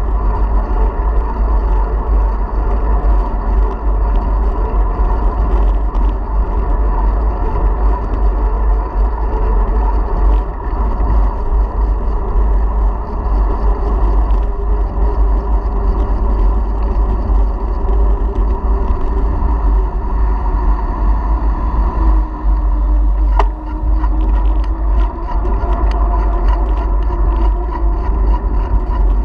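Wind rumbling on the action camera's microphone during a bicycle ride, over the steady hum of the moving bike. There is a sharp click about 23 seconds in.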